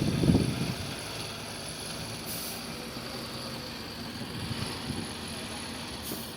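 Diesel engine of heavy equipment running steadily, louder for the first half second, then a low, even hum that swells slightly near the end.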